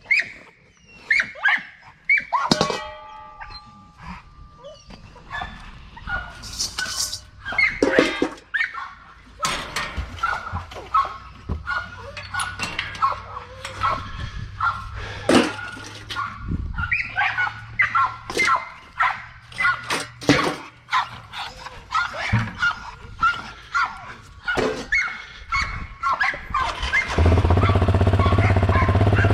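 Dogs moving about and making short high yips and whines among scattered clicks and clatter. Near the end a loud steady low hum starts suddenly.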